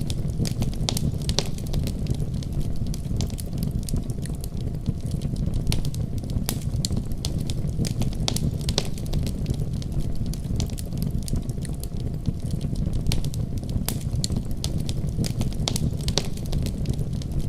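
Wood fire crackling with frequent irregular sharp pops, over a steady deep rumble of a snowstorm.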